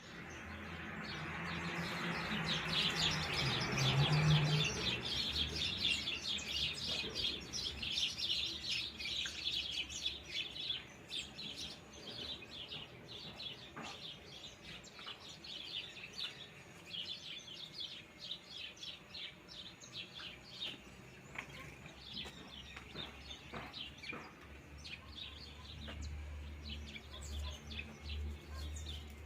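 Many birds chirping and calling in quick, overlapping notes. A broad rushing noise swells over the first few seconds, is loudest about four seconds in, and fades away by about six seconds.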